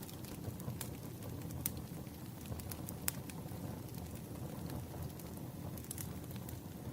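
Firewood burning: a steady low rumble of the flames with sparse sharp crackles and pops, a few every couple of seconds.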